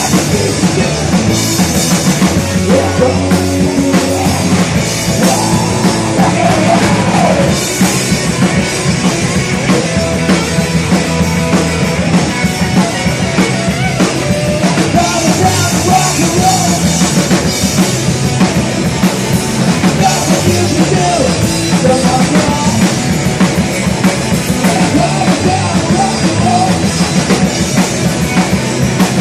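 Live rock band playing loud and distorted, with a hard-hitting drum kit, electric guitars and bass.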